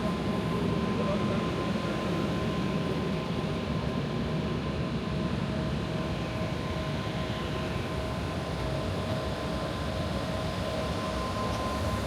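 Steady machine hum with a low rumble and two thin, steady whining tones held throughout.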